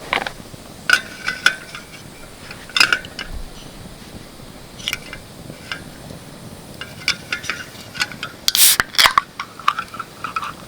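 Scattered knocks, clinks and scraping of camp gear being handled, with a louder burst of scraping near the end.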